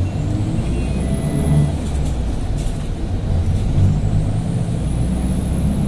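City bus under way, heard from inside the cabin: a steady low rumble, with a faint high whine that rises and holds twice.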